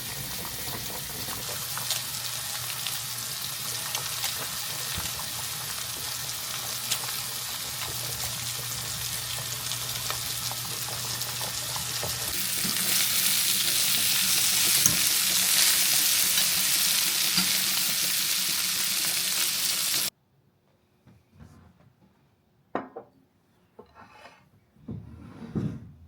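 Food sizzling and crackling in a hot pan, a steady hiss that grows louder about halfway through and then cuts off suddenly. After it come a few faint knocks and rubbing sounds.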